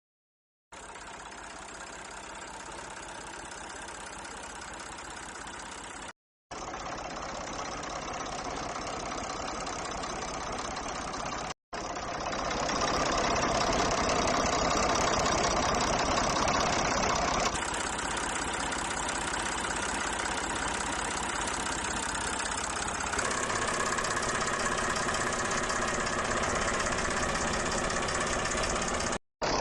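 Mini tractor engines running steadily, heard in several short clips joined with abrupt cuts. The sound drops out briefly or changes character at each cut.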